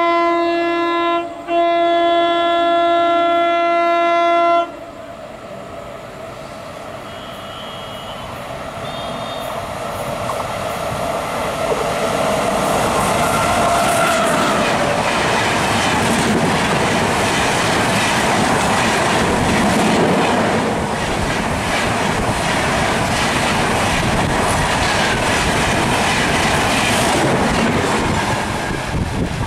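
WAP-7 electric locomotive's horn sounding with a short break, then stopping abruptly about four and a half seconds in. A long passenger train then passes at speed: the rush and clickety-clack of the wheels build up and stay loud, easing off near the end as the last coach goes by.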